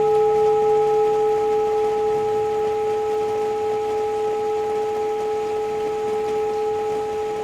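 Tibetan singing bowls ringing on after being struck, a steady chord of pure tones slowly fading, with a lower hum dying away about a second in. A faint even hiss of rain sits behind them.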